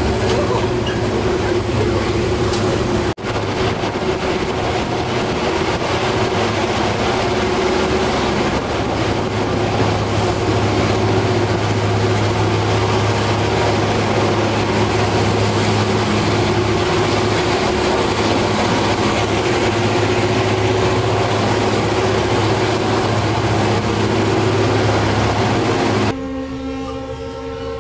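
Passenger train running: a steady rumble with a low hum, broken by a short dropout about three seconds in. Near the end it gives way to a quieter sound of several steady tones.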